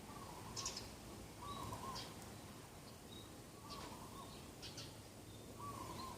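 Birds calling: a short, low call repeated about every two seconds, with brief high chirps in between.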